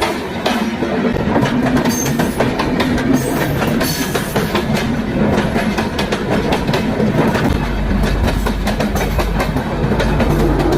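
Train running on the rails: a steady, loud rumble of wheels on track with many sharp clicks, the low rumble growing heavier about three quarters of the way through.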